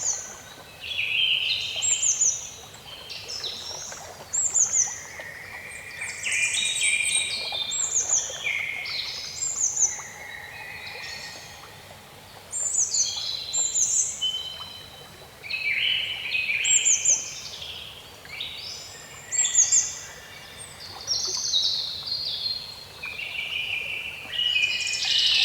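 Several songbirds singing at once, their phrases overlapping in a dense chorus of quick, high falling notes, over a faint steady background hiss.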